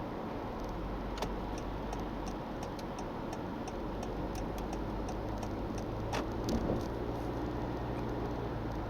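Honda Freed's 1.5-litre four-cylinder petrol engine and road noise heard inside the cabin at motorway speed: a steady drone with light ticks and clicks scattered through it.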